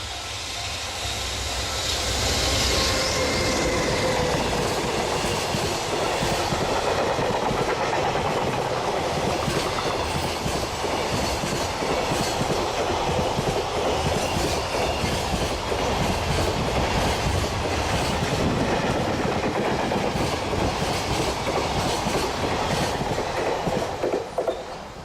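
Freight train hauled by an EH500 electric locomotive passing. The locomotive goes by in the first few seconds with a falling whine, then a long string of freight wagons follows with wheels clicking rhythmically over rail joints. The sound cuts off abruptly near the end as the last wagon passes.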